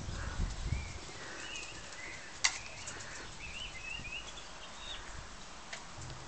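Small birds chirping in short, wavering phrases, over a faint outdoor hush, with a sharp click about two and a half seconds in and a fainter one near the end.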